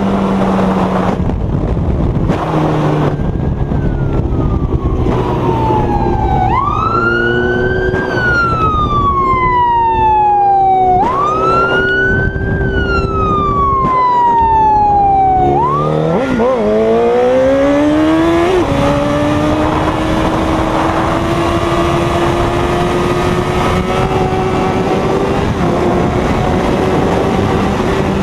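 Motorcycle engine running at road speed, changing pitch as it shifts gears. Through the middle a police siren wails twice, each time rising quickly and then falling slowly. Near the end the engine note climbs steadily as it accelerates.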